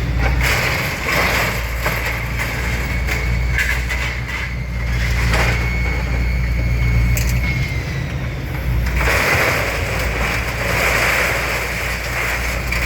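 A vehicle engine running steadily, with scattered knocks and clanks. About nine seconds in, a few seconds of louder rushing noise sound over it.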